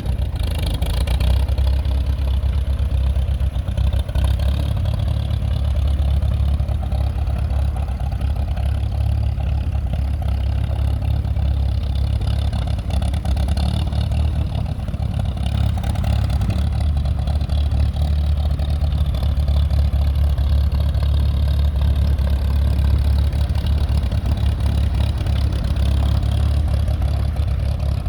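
The gasoline four-cylinder engine of a 1953 Farmall Super M tractor running steadily at a low, even speed, with a deep, constant rumble.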